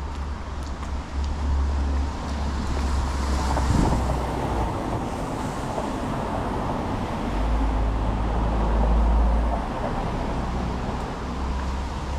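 Street traffic: cars passing on a city street over a steady low rumble. Louder passes come about four seconds in and again around nine seconds.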